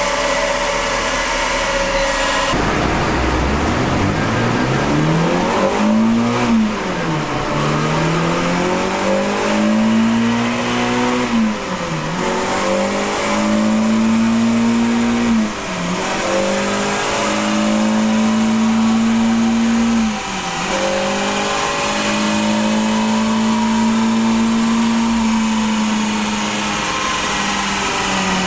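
Renault Clio 197's 2.0-litre four-cylinder engine running on a chassis dyno: steady at first, then about two seconds in the revs climb hard, drop sharply at a gear change and climb again, four times over, before holding steady near the end.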